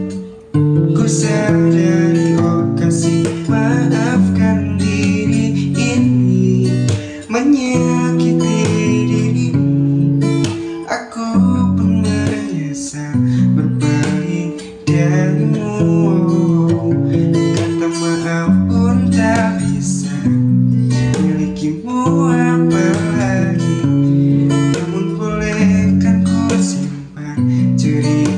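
Acoustic guitar playing an instrumental passage of a song, strummed chords changing at a steady pace.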